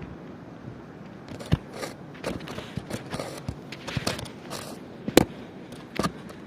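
Large first raindrops of a thunderstorm striking close to the microphone as irregular sharp taps and pops, starting about a second in, over steady wind noise.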